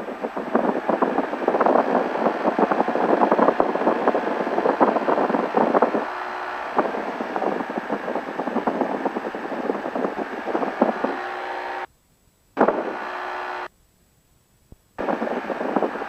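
Cessna 172's engine running steadily at run-up power, about 1800 RPM, for the pre-takeoff engine check, heard through the headset intercom. The sound cuts out to silence twice near the end.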